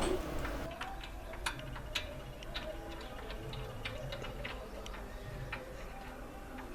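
Faint, irregular sharp clicks and ticks, about one or two a second, over a low steady hum.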